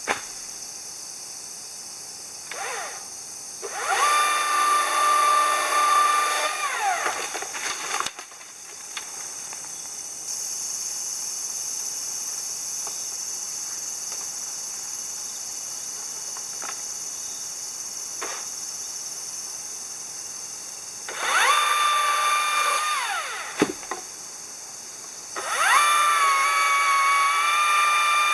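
A small power-tool motor running at high speed in three bursts, its pitch rising as it speeds up and falling as it lets off. A steady high hiss fills the gaps between the bursts.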